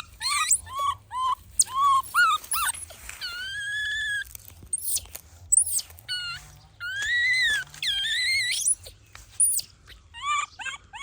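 Baby monkey crying. It starts with a quick run of short, high squeaks, gives longer drawn-out wailing calls a few seconds in, and ends with another run of short squeaks.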